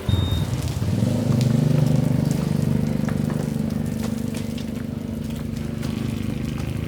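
A truck engine catches suddenly and runs with a rapid low pulsing, picking up over the first couple of seconds and then settling to a steady idle.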